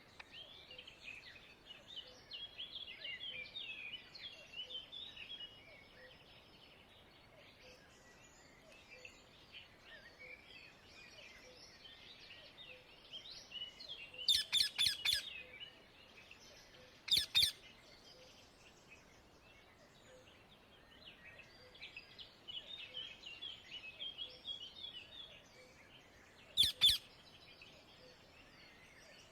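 Rose-ringed (Indian ringneck) parakeets screeching: a quick run of loud, shrill calls about halfway through, another a few seconds later and one more near the end. Behind them, smaller birds twitter steadily.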